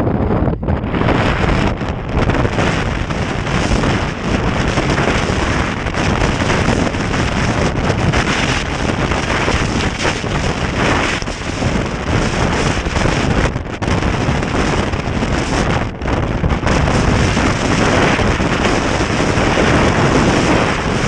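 Strong wind buffeting the microphone: loud, continuous wind noise, with a few brief lulls.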